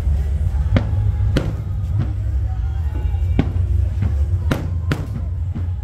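Aerial fireworks shells bursting, about seven sharp bangs spread over the few seconds, over a steady low rumble.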